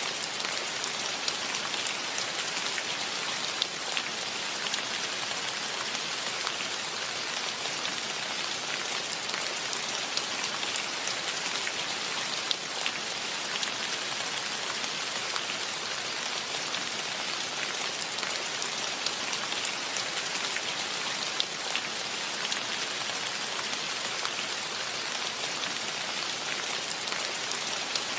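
Steady rainfall, an even hiss with scattered sharper drop ticks, a few louder ones standing out now and then.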